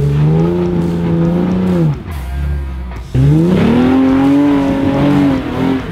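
Jeep Wrangler engine revving in two surges while crawling over rock. Each time the pitch climbs and holds, then eases off: the first surge ends about two seconds in, and the second starts a second later and dies away near the end.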